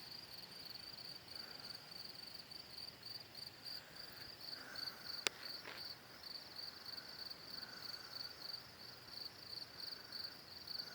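Crickets chirping at night: a steady run of high-pitched pulses, several a second, with a fainter, lower insect call in slow bursts. A single sharp click about five seconds in.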